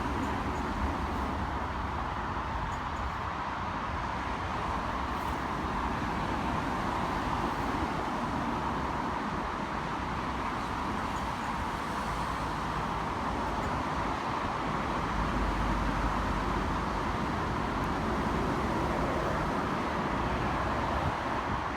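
NI Railways Class 4000 diesel multiple unit running at the platform: a steady drone with low rumble, a little louder in the second half.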